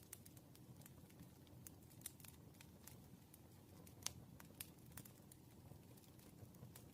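Faint, irregular clicks and taps of a pen writing on paper, over a low steady room hum, with one sharper tick about four seconds in.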